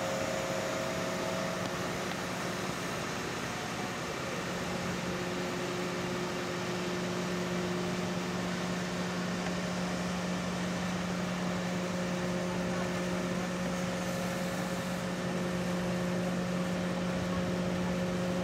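Remote-controlled camera aircraft's electric motors and propellers running in flight: a steady whirring hum with a constant low tone and a few higher ones.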